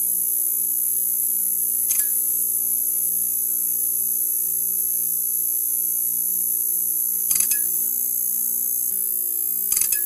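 Neon sign buzzing: a steady electrical hum with a high hiss over it, broken by a single crackle about two seconds in and short bursts of crackling clicks a little after seven seconds and again near the end.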